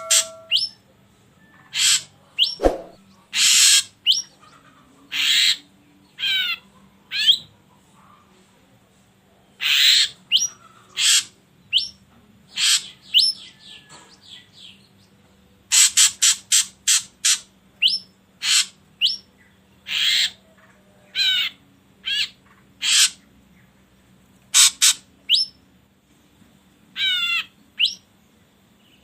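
Ashy drongo calling: short, harsh calls given singly and in quick runs, with a quick warbling whistled phrase about six seconds in and again near the end.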